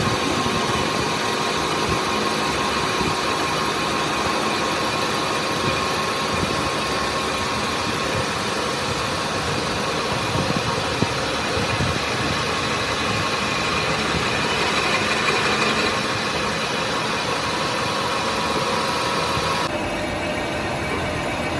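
Machinery running steadily, a dense mechanical noise with a faint steady hum, changing abruptly near the end.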